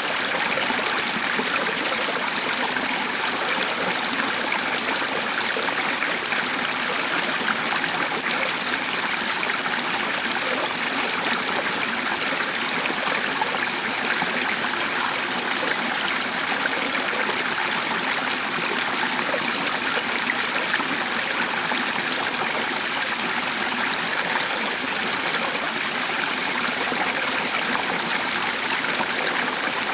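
Water of a small stream or brook running steadily, an even rushing and trickling that stays the same throughout.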